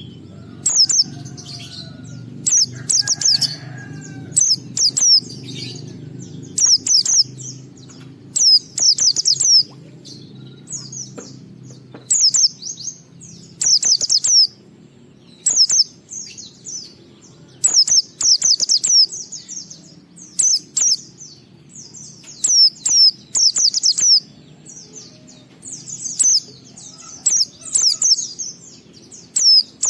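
Pleci (white-eye) singing in the chattering 'ngalas' style: short, high, rapid twittering phrases, one every second or two. A low steady hum runs underneath through roughly the first third.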